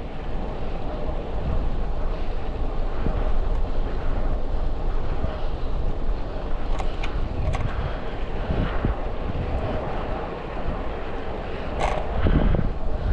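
Wind rushing over a GoPro's microphone on a moving bicycle, a steady low rumble, with a few short sharp clicks about seven seconds in and again near the end.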